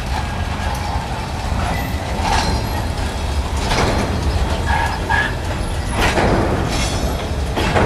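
Sliding-wall freight wagons rolling slowly past on the adjacent track during shunting, their wheels giving irregular knocks over rail joints and points, over a steady low rumble.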